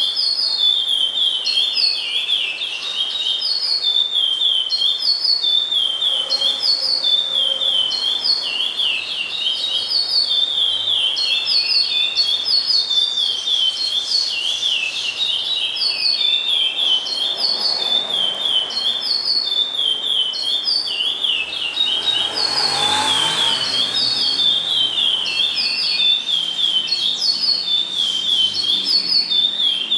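A songbird singing a high, quick phrase over and over, about every second and a half.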